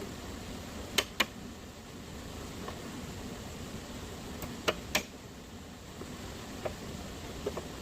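Sharp knocks, two pairs of quick strokes about four seconds apart, with a few lighter ticks between them, over a steady hiss.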